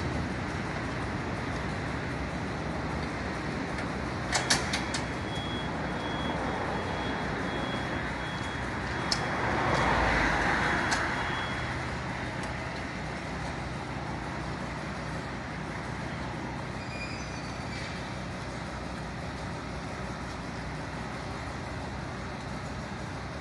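Fire truck engine running steadily at idle, with a few sharp clicks about four seconds in and a swell of air hiss about ten seconds in.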